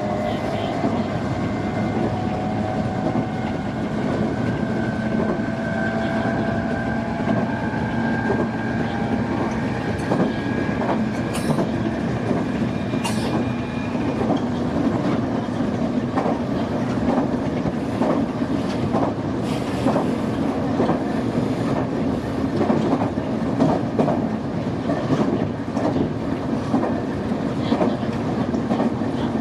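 Nankai Main Line electric train running along the track, heard from inside the front car: a steady rumble of wheels on rail with repeated clicks as the wheels cross rail joints. A steady electric motor whine in the first half fades out about halfway through.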